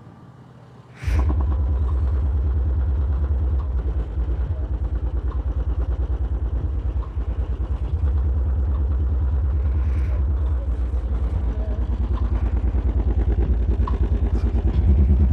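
Car audio subwoofers kicking in loud about a second in, playing very deep, steady bass notes with a fast pulsing rattle. The bass shifts a couple of times.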